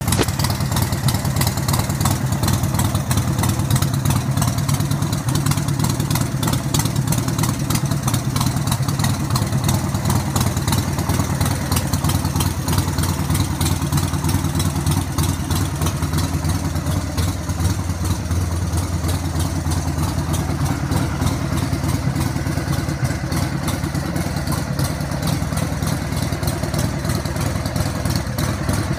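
1999 Harley-Davidson Sportster 1200S air-cooled 1200 cc Evolution V-twin idling steadily through its chrome exhaust pipes.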